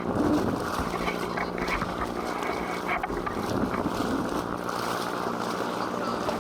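Wind buffeting the microphone and water noise around a small boat at sea, over a steady low hum.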